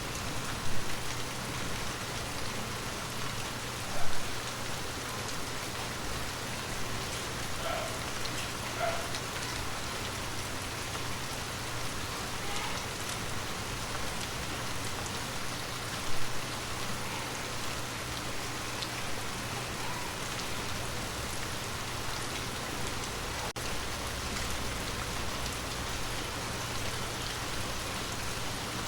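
Water drops falling on glass: a steady dense patter with now and then a single drop that rings out clearly. Three drops stand out louder, about a second in, near four seconds and near sixteen seconds.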